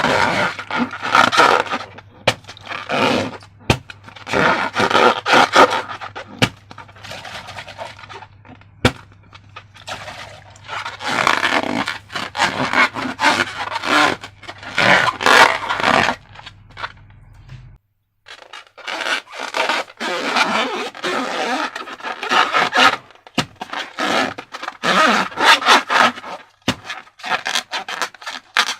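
Slime and rubber balloons being handled: irregular runs of scraping and squishing with many sharp clicks, pausing briefly about eighteen seconds in.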